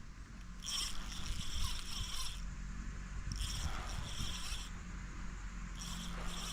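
Fishing reel being cranked in three spurts, its gears giving a dense high clicking, while a hooked fish is reeled in.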